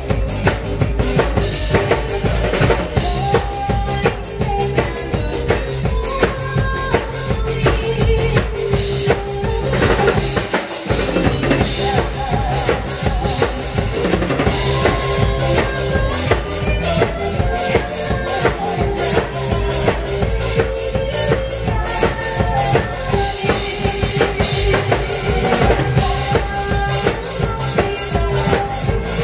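Drum kit played to a quick, steady beat, kick and snare hits over backing music with a held melody line. The bass drops out for a moment about eleven seconds in.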